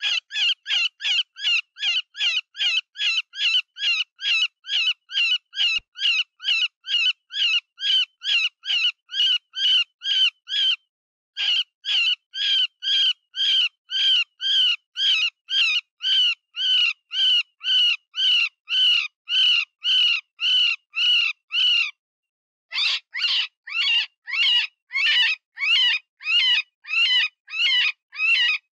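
Cottontail rabbit distress call used as a predator lure: a fast, steady series of short high-pitched cries, about two to three a second, each rising and falling in pitch, imitating a wounded rabbit. The series breaks off briefly twice, then resumes.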